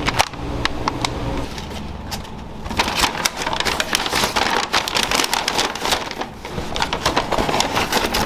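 Chicken frying in hot oil, a dense irregular sizzle full of small crackles. A low steady hum runs under it for about the first second.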